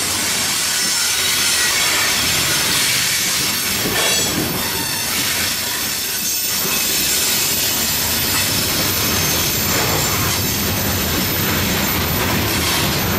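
Loaded coal cars of a long freight train rolling past, their steel wheels squealing on the rails with a steady rumble underneath.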